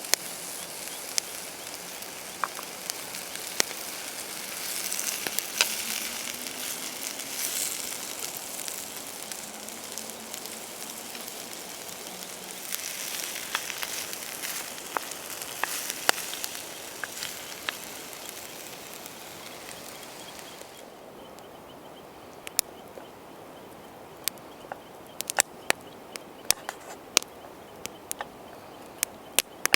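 Food sizzling over a wood campfire, with sharp pops from the burning wood. About two-thirds of the way through the sizzling stops, leaving only scattered crackles of the fire.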